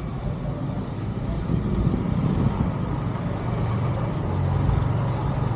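A motor vehicle's engine running close by, a steady low hum that grows louder from about halfway through.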